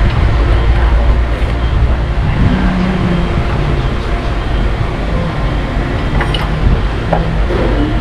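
Heavy diesel truck engine running, a steady low rumble with no clear change in pitch.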